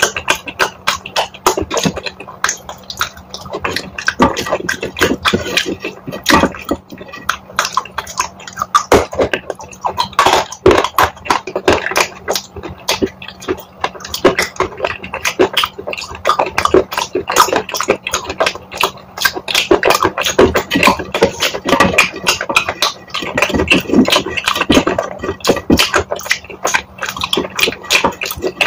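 Close-miked eating of wet chalk paste: a dense, unbroken stream of sticky mouth clicks, smacks and chewing, several a second.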